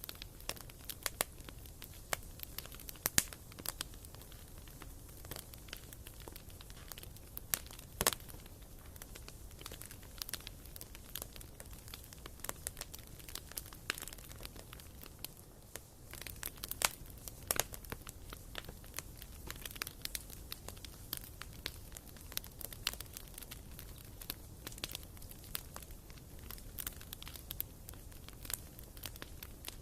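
Wood fire burning in a fireplace, crackling with irregular sharp pops over a low steady rush of the flames; a few pops stand out louder than the rest.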